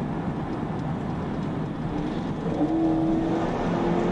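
Road and engine noise inside a moving police patrol car, a steady rumble. About halfway through, a humming engine note comes in over it.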